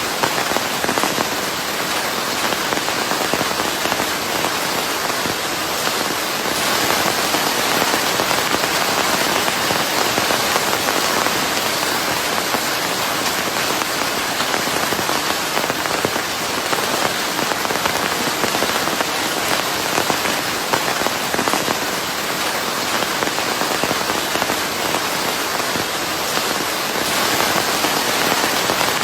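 Steady rain on a surface, a dense even patter with a fine crackle of drops, blended with white noise.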